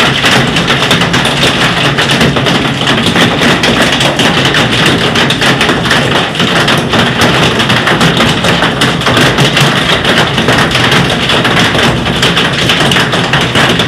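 Hailstones pelting down in a dense, steady clatter of countless rapid impacts.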